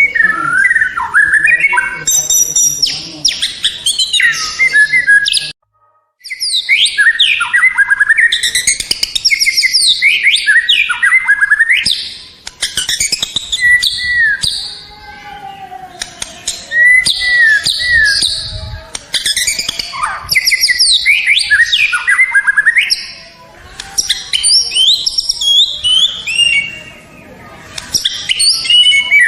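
White-rumped shama (murai batu) singing: a long run of rapid, varied whistled phrases and chatter, coming in bursts with short pauses. It breaks off completely for a moment about six seconds in.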